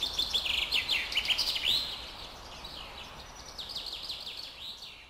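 Many small birds chirping and twittering over a faint background hiss. The chirping is busiest in the first two seconds and fades out near the end.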